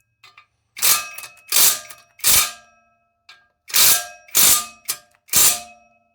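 Impact wrench fired in short bursts, about half a second each, running down the bolts that hold a new fan clutch to the fan blade, with the metal parts ringing after each hit. Six bursts in two sets of three, about a second and a half apart.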